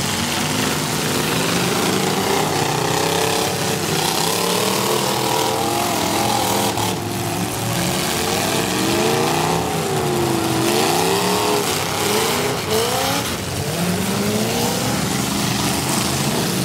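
Several V8 engines in demolition derby cars running hard at once, their pitches rising and falling as the drivers rev, back up and charge.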